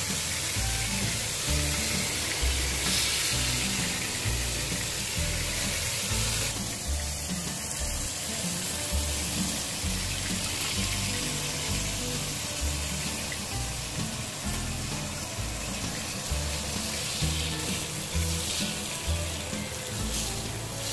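Stuffed squid frying in hot oil in a pan, a steady sizzle, under background music with a steady bass beat.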